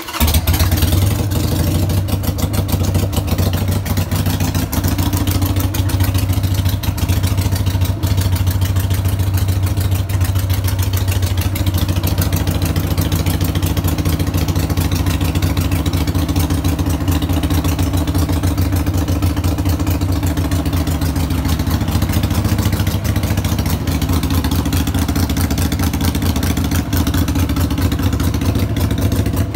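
Harley-Davidson XL883 Sportster's air-cooled V-twin, breathing through aftermarket exhausts, starts up and idles with a steady, pulsing beat. Its note shifts slightly about twelve seconds in.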